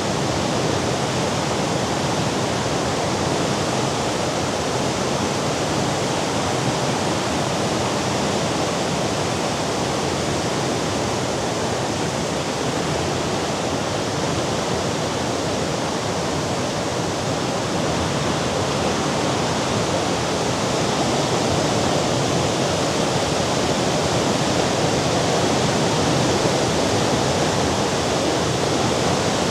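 Steady rushing noise of Mediterranean surf breaking below the cliffs, swelling a little louder over the last third.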